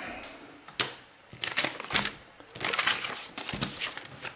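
Small objects being handled and rummaged through: a sharp click about a second in, then spells of rustling, crinkling and light clattering about one and a half and three seconds in.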